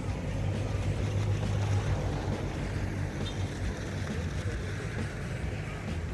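Strong wind buffeting the microphone: a steady low rumbling noise.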